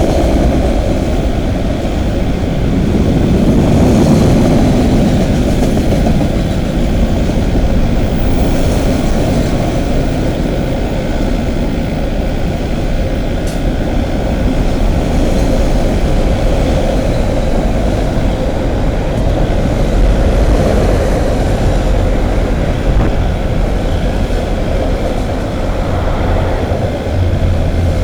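Freight train cars of a long CN mixed freight rolling steadily past, a continuous low rumble of steel wheels on the rails.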